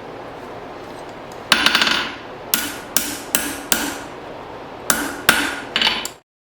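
Hand hammer striking a punch through hot file steel on an anvil: a quick flurry of ringing metal blows about a second and a half in, then single strikes a third to half a second apart, cutting off suddenly near the end.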